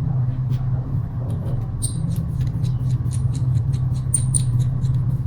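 Light metal clicks and a few brief high squeaks of small parts being handled, as the new bolt and spring of the scooter's folding mechanism are fitted, over a steady low hum.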